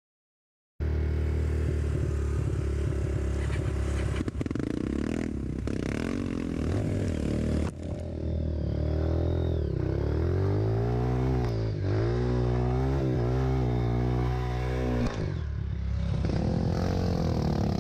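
Trail motorcycle engine revving up and down as the bike is ridden over rough ground, with scraping and clattering. The sound cuts in abruptly just under a second in.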